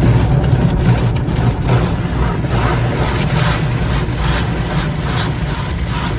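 Automated tunnel car wash heard from inside the car: a steady low rumble of the wash machinery, with repeated swishing hits against the car body, quick at first, then slower and broader.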